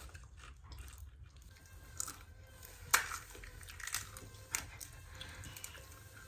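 Mouth sounds of eating by hand: biting and chewing food, with a few sharp crunches or clicks. The loudest comes about three seconds in. A low steady hum runs underneath.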